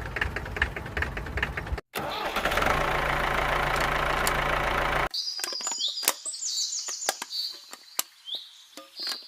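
A small engine running steadily, broken by one brief cut. About five seconds in it stops abruptly and gives way to repeated high bird chirps and a few sharp clicks.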